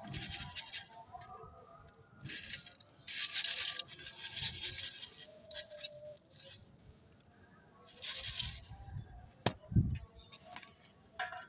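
Dry, crumbly clay being crushed, with several gritty crunching bursts of up to a second or so, separated by short pauses. A sharp click comes about nine and a half seconds in.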